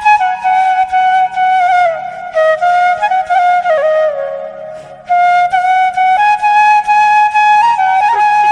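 Background music: a flute melody playing a line that slides and bends in pitch, dipping briefly in loudness about halfway through.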